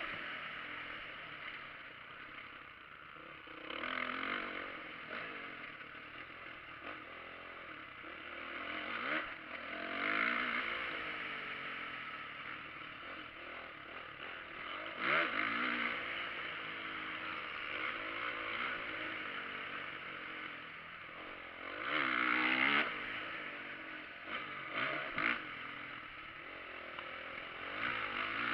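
Motocross dirt bike engines revving and passing, the engine note rising and falling with loud swells several times.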